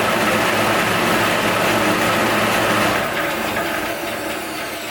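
A Delta 14-inch bandsaw and its induction motor running loud and steady, then winding down about three seconds in, its pitch falling. It sounds and shakes more than it should, because of its unstable stock base.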